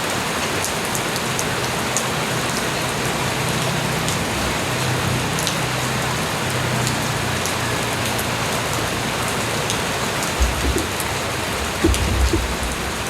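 Light rain falling steadily, an even hiss with scattered individual drops ticking on surfaces. A low rumble comes in twice toward the end.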